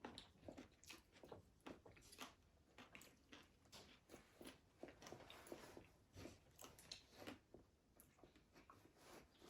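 A person chewing and biting food close to the microphone: a faint, irregular run of short mouth clicks and wet smacks.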